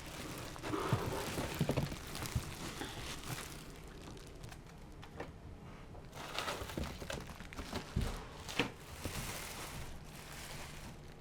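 Packaging being unwrapped: irregular rustling and crinkling, with scattered light knocks as the boxed unit is handled.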